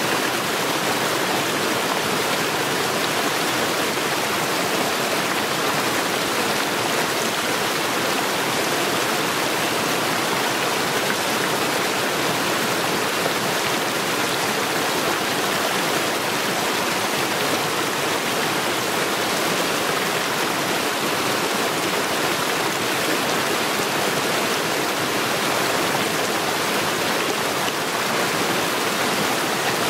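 Mountain stream rushing over stones, a steady, unbroken roar of water.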